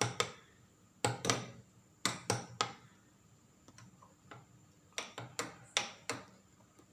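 A spoon clinking against a glass while stirring tea, in short groups of two or three sharp clicks with pauses between.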